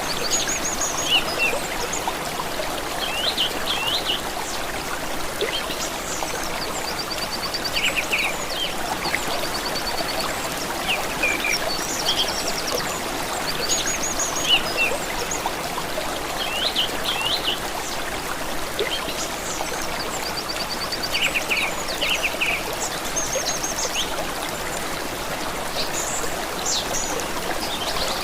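Steady running water of a stream, with songbirds calling over it: short chirps and quick repeated trills every few seconds.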